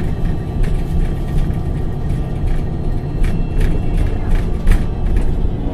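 MAN NG273T4 articulated bus's LPG engine running with a steady low rumble, with scattered short clicks and rattles.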